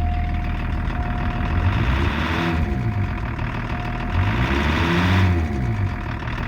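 BMW-built 2.4-litre straight-six turbo diesel of a 1984 Lincoln Continental running, its engine speed climbing and dropping back twice.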